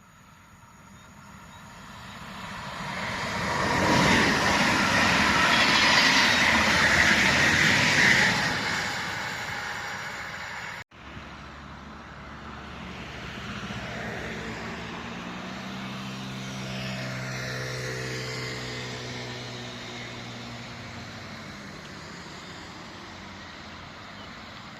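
An ED160 electric multiple unit passes at speed, its wheels rushing on the rails. The sound swells to a loud peak and fades. After a break, a Pesa Elf electric multiple unit passes more quietly, with a lower rumble and a hum of steady tones from its electric drive.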